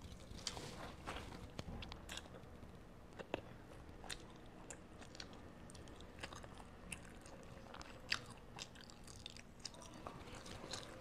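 A child biting and chewing Spam musubi (rice, Spam and seaweed) close to a clip-on microphone: irregular small wet mouth clicks and smacks.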